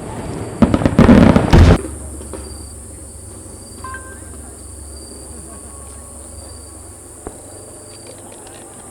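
Aerial fireworks shells bursting: a quick cluster of loud bangs in the first two seconds, then a quieter stretch with faint crackling and a single sharp pop about seven seconds in.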